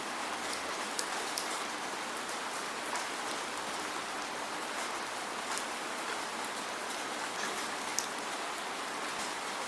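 Steady rain without thunder: an even hiss with many separate drops ticking sharply on a surface, two of them louder about a second in and near the end.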